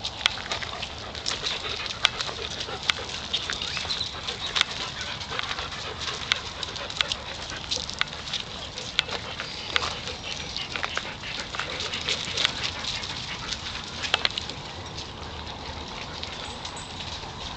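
A pack of dogs barking and yapping on and off, many short sharp barks over one another at irregular intervals.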